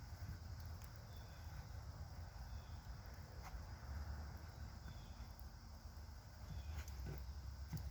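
Quiet outdoor ambience: a steady low rumble with a few faint, short high chirps and a few small clicks.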